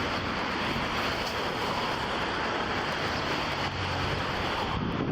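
Steady rushing noise of wind buffeting a police body-worn camera's microphone.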